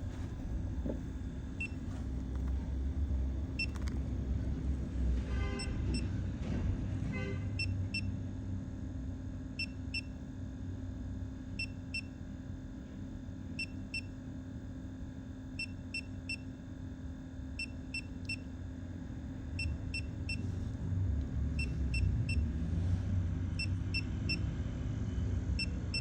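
Hydrogen tracer gas leak detector beeping: short high beeps, often in pairs, every second or two, signalling tracer gas escaping at the wall from a leak under the floor. A steady low rumble runs underneath.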